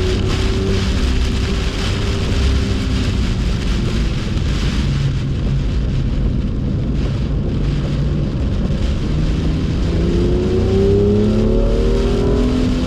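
BMW F87 M2 engine under way on a soaked track, with a steady hiss of rain and tyre spray. The engine note sits low through the middle, then climbs in pitch as the car accelerates over the last few seconds.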